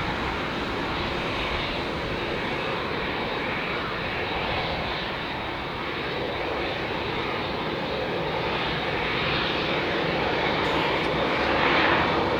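Boeing 787-9 airliner's jet engines running at low power as it rolls out and turns off the runway after landing, a steady rush that grows somewhat louder near the end.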